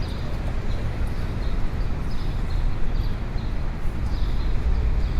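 Busy city street ambience: a steady low rumble of traffic with the hum of a crowd, and faint short high chirps recurring every second or so.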